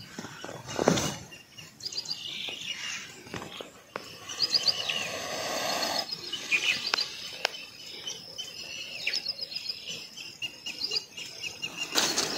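Small birds chirping, with repeated short high twittering calls throughout, over a few soft knocks and rustles.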